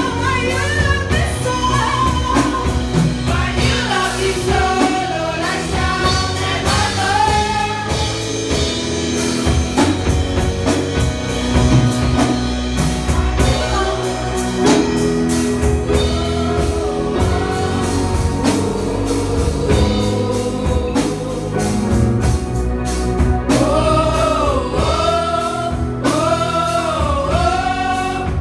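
Gospel-style singing with band accompaniment: voices over bass and drums with a steady beat, a group of singers gliding together near the end.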